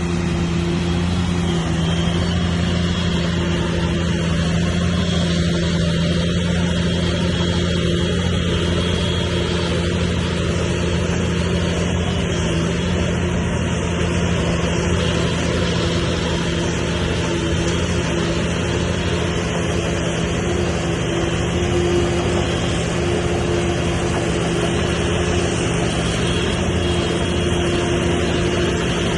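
Heavy diesel engine of an earthmoving machine, a bulldozer or dump truck, running steadily at constant speed, its pitch and loudness holding even throughout.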